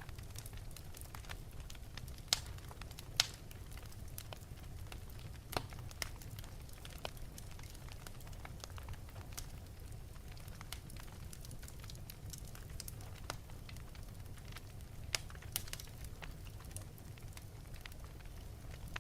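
Fire burning in an open fireplace, crackling with scattered sharp pops and snaps. A few louder pops come early and again near the end, over a steady low rumble.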